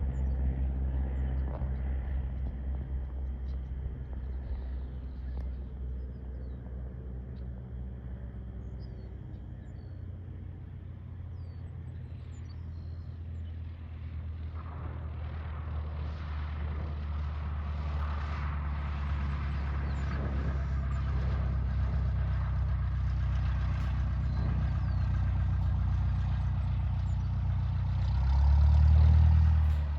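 An engine running steadily with a low hum. Broader noise builds up from about halfway, and the sound swells briefly near the end.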